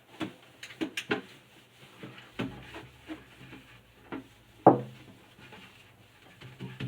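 Scattered light knocks, clicks and rubbing from things being handled during fridge cleaning, with one louder, sharper knock a little after halfway.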